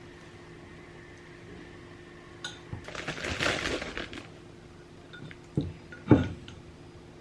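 A spoon scraping and spreading soft garlic butter over a slice of bread for about a second and a half, then two knocks, the second sharper and the loudest.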